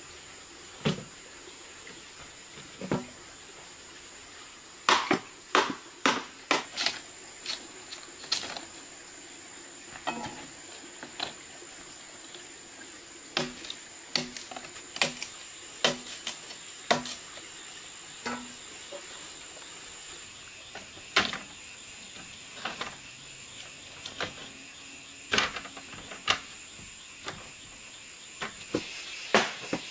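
Irregular sharp knocks and taps, in clusters of several quick strikes with pauses between, over a steady high-pitched drone of insects.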